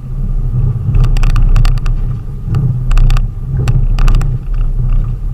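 A delivery vehicle driving along, heard from inside: a steady low engine and road rumble, with three short bursts of rattling clicks about a second, two and a half seconds and nearly four seconds in.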